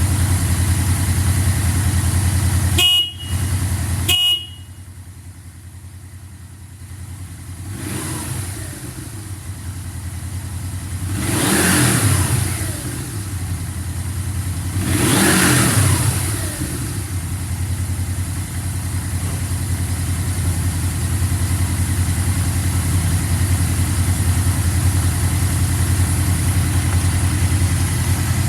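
Yamaha V-Max V4 engine idling steadily. About three and four seconds in there are two brief high beeps, and the engine sound drops away for a few seconds. It then builds back and is revved twice, about twelve and sixteen seconds in, each rev falling back before it settles to a steady idle.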